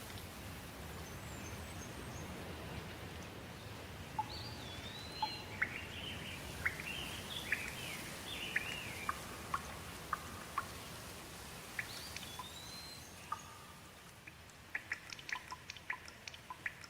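Steady rain with birds singing through it: a few whistled calls that slur upward and a run of chirps. Near the end the rain hiss dies down and a quick series of short sharp ticks follows.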